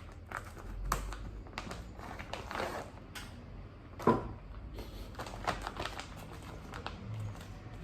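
Unboxing handling sounds: packaging rustling and a run of small clicks and taps, with one louder knock about four seconds in.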